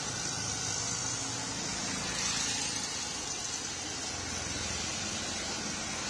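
Steady hiss of heavy rain and traffic on a wet street, with a low engine rumble underneath.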